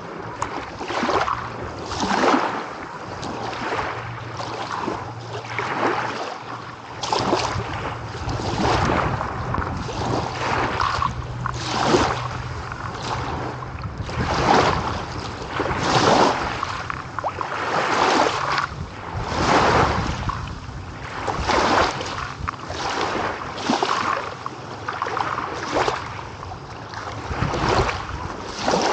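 Small sea waves breaking and washing onto a shore, one surge every second or two.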